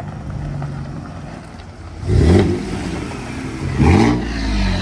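Ford F-150's 2.7 EcoBoost twin-turbo V6 idling, then revved twice, about two seconds in and again near four seconds, each rev climbing quickly and falling back. A faint high turbo whistle starts near the end.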